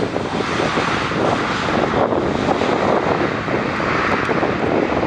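Airbus A320-family airliner's twin jet engines, a loud, steady rushing noise as the plane comes in to land.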